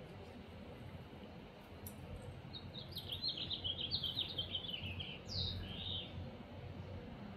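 A songbird singing one short song: a quick run of chirps that falls a little in pitch, ending in a downslurred note and a lower final note. It starts about two and a half seconds in and lasts about three and a half seconds.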